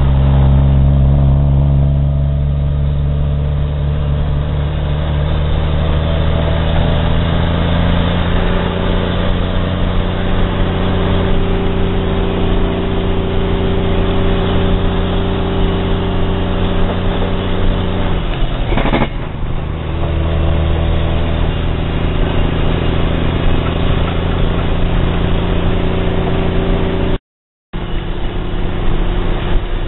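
Log truck's diesel engine running steadily under load, its note shifting about a third of the way in and dipping again just past halfway with a brief click. A short gap of silence cuts in near the end.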